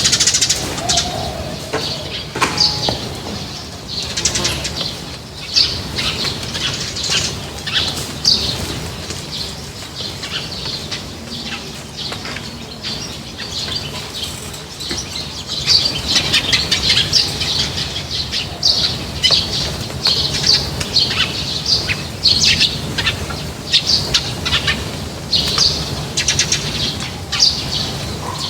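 A flock of small birds at a feeding spot, chirping constantly with flutters of wings. The chirping gets busier about halfway through.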